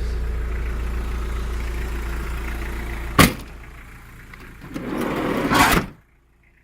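Steady low engine rumble, then a single loud bang about three seconds in. Near the end, a rising rustling noise ends in a thump, and the sound cuts off abruptly.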